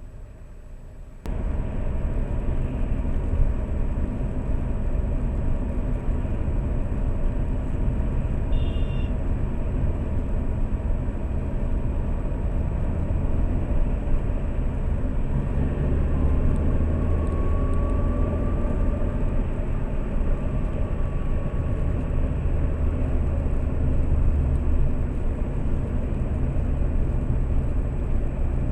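Steady low engine and road rumble from a Lada Priora in motion, heard from inside the cabin. It starts abruptly about a second in.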